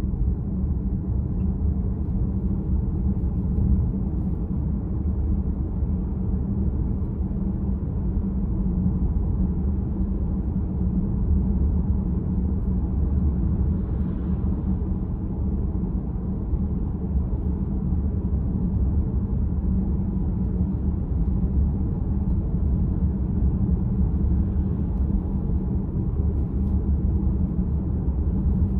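Steady low road and tyre rumble heard inside the cabin of a moving VW ID.4 electric car.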